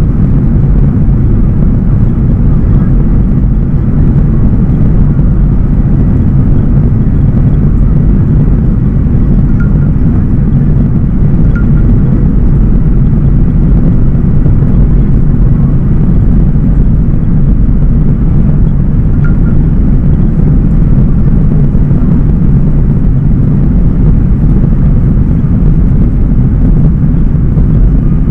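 Loud, steady noise of a Boeing 737-800's CFM56-7B turbofan engines and rushing air heard from inside the passenger cabin, with the engines at high thrust for takeoff and climb.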